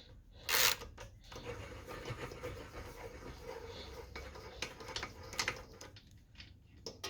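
Light scraping and rubbing with scattered small clicks as metal parts are handled on a workbench, with one louder scrape just under a second in.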